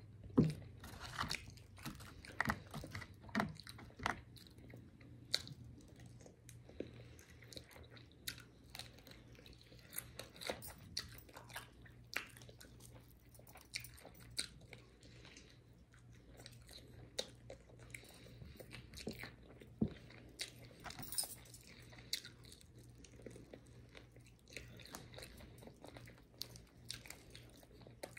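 Close-miked chewing and biting of crispy fried chicken wings: irregular crunches and wet mouth clicks, more frequent in the first few seconds.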